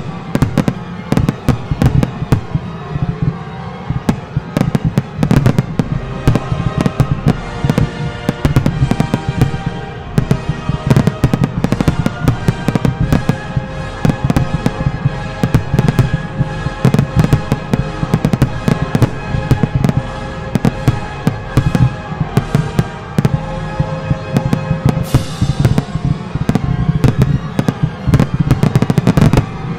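Aerial fireworks shells bursting in a dense, rapid barrage, many reports a second, with music playing underneath.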